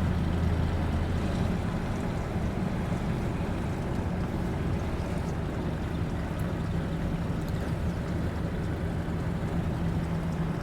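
Square-body 2500 4x4 pickup truck's engine running steadily under way, with road and wind noise, heard from inside the cab. The low engine hum changes about a second and a half in, as the throttle or gear changes.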